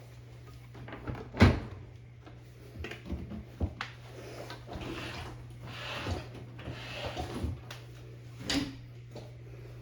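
Clunks, knocks and rustling from handling a front-loading washing machine after its door seal has been replaced, with one loud clunk about one and a half seconds in, over a steady low hum.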